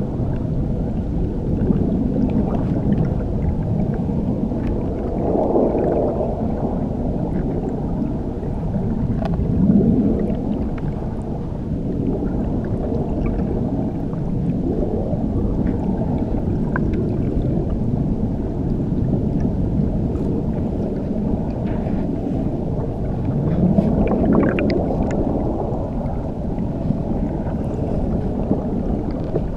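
Muffled underwater rush of churning water recorded beneath a waterfall: a steady deep roar that swells and eases slowly, with faint ticks and bubbles over it.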